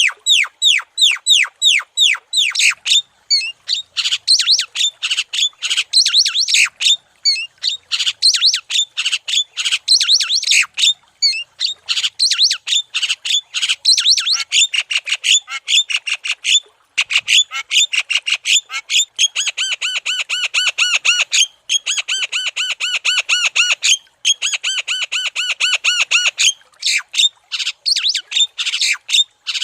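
Javan myna (jalak kebo) calling continuously in a fast run of short notes, several a second, with stretches of quicker, evenly pitched repeated notes in the second half and brief pauses between phrases.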